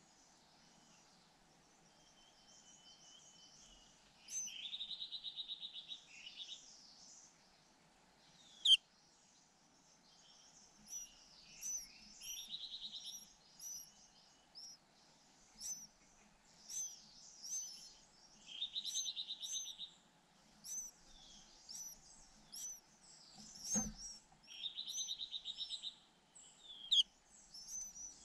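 White-eye nestlings begging in four buzzy, rapidly pulsed bursts, among many thin high chirps. A sharp click about nine seconds in and a low thump near the end.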